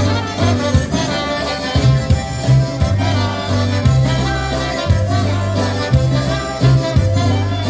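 Live polka band playing an instrumental passage of a Polish song, the melody over a steady, repeating bass line.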